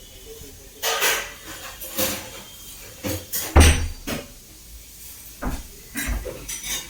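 A series of short knocks, rattles and scrapes of household things being handled, the loudest a heavy thump about three and a half seconds in.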